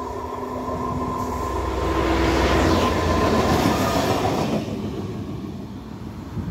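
Yellow DB Netz maintenance railcar approaching and passing close by at speed: the rushing running noise of wheels on rail builds to a peak and fades as it goes away. A steady hum from the vehicle drops in pitch as it passes.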